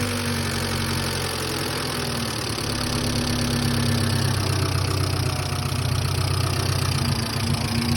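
Hyundai Excel's 1.5-litre four-cylinder engine idling steadily. The engine is known to tick, which the owner puts down to a slight lifter tap.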